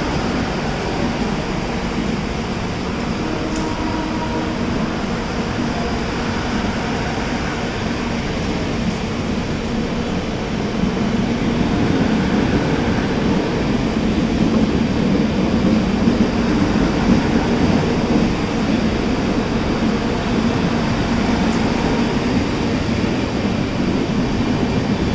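Steady hum and noise from a Shatabdi Express train at a station platform, with a constant low drone, getting somewhat louder about halfway through.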